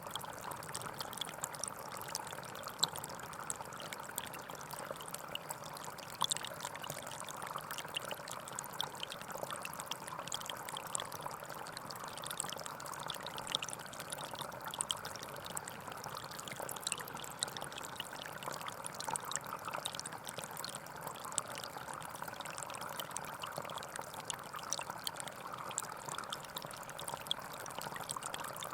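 Gentle forest stream flowing and trickling steadily, with many small splashes and drips over the even rush of water.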